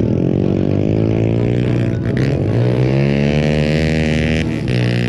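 Mini bike's small engine running loudly. Its pitch drops about two seconds in as the throttle eases, then rises again and holds as it revs back up.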